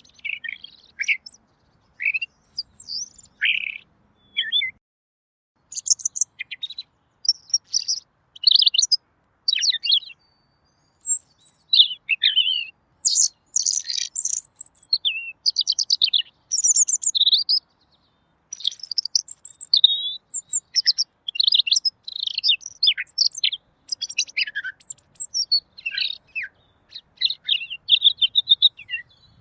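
Red-billed leiothrix (Pekin robin) singing a long run of rapid, varied warbled phrases and chirps, with short pauses between phrases.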